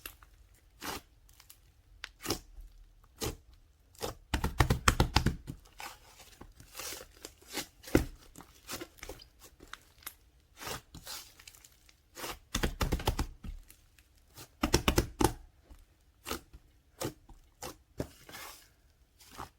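Close-up crinkling and crackling from something being handled and squeezed, in irregular runs of sharp crackles, the loudest about four, twelve and fifteen seconds in.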